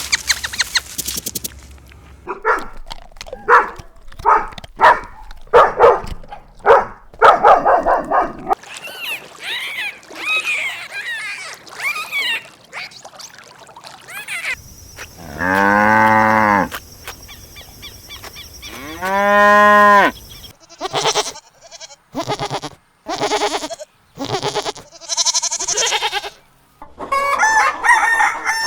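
Cows mooing: two long, loud moos about halfway through, among shorter repeated calls from other farm animals, including fowl.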